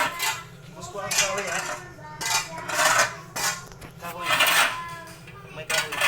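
A hand scoop or shovel scraping and scooping through sawdust mixture in repeated short strokes, roughly one a second, each with a rasp and a faint metallic ring.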